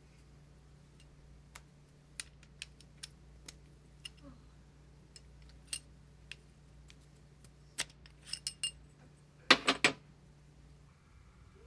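Scattered metallic clinks and taps of small bicycle parts and hand tools being handled, with a quick run of louder clinks near the end, over a faint steady hum.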